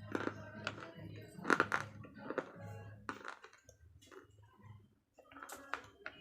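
Slate pencils being bitten and crunched between the teeth: a series of sharp, brittle crunches, with a quieter stretch of chewing in the middle before two more bites near the end.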